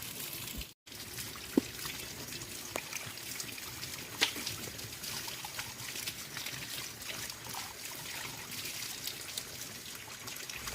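Liquid trickling steadily, with a couple of sharp clicks.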